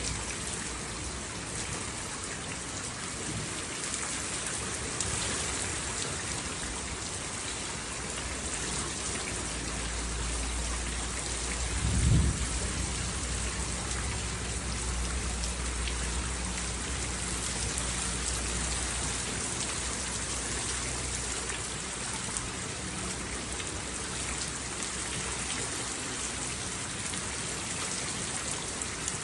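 Steady rain falling in an even hiss. Thunder rolls in about a third of the way through, with one sharp clap near the middle, then rumbles away over the next several seconds.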